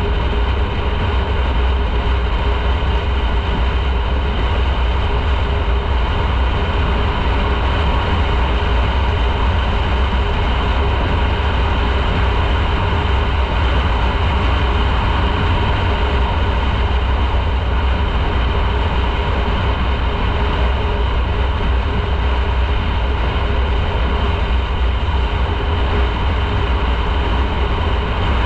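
Motorcycle riding at a steady pace, with an unchanging engine drone under a heavy rumble of wind on the camera's microphone.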